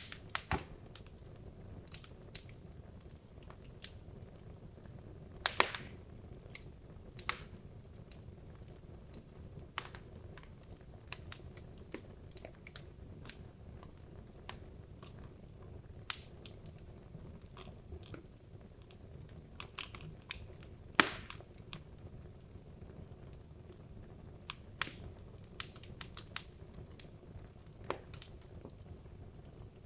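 Wood logs burning in a fireplace, crackling with irregular sharp pops over a low steady rumble of the flames; the loudest pops come about five seconds in and about two-thirds of the way through.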